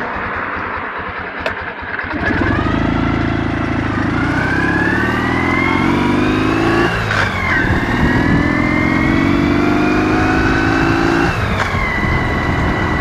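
Ural motorcycle's 650 cc boxer-twin engine accelerating under way, the engine note rising in pitch, then dropping briefly for a gear change about seven seconds in and again near the end.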